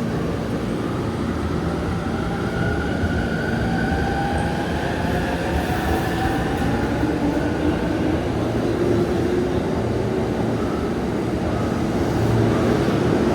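Electric commuter train moving along a station platform: a steady rumble, with faint motor tones that slide slowly in pitch, one of them rising through the second half.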